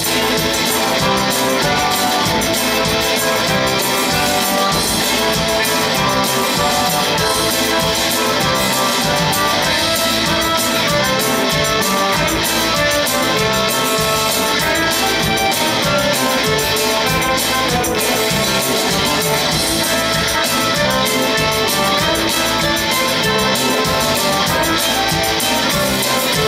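Live rock band playing an instrumental passage: guitars over a drum kit with a steady beat.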